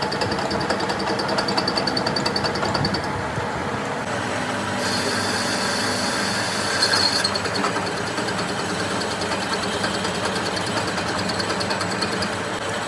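Workshop machinery running steadily, with a high whine that stops about three seconds in and comes back about two seconds later.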